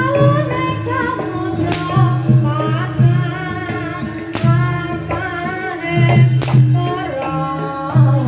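Live Javanese traditional music of a reog and kuda lumping troupe: a singer's wavering melody over a steady held tone and repeated low drum beats, with three sharp percussion strikes cutting through.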